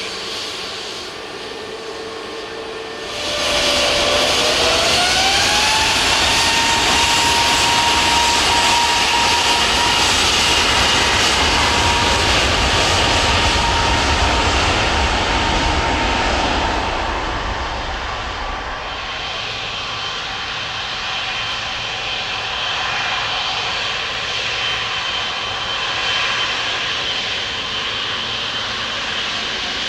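Jet airliner engines spooling up about three seconds in: a whine rises in pitch and then holds steady over a deep rumble. It stays loud for over ten seconds, then eases to a quieter, steady run with a high whine.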